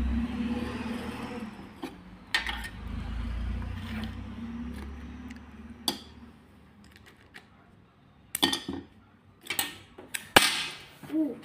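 Small stones clicking and clattering against each other as they are picked up and set down, in a handful of separate sharp knocks, with a low handling rumble in the first half.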